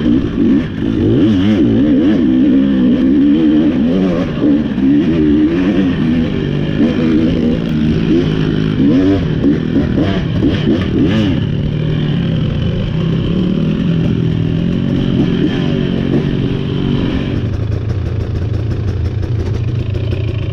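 KTM 300 XC two-stroke dirt bike engine revving up and down on the throttle, with some clatter. About three-quarters of the way in it settles to a steadier, lower note.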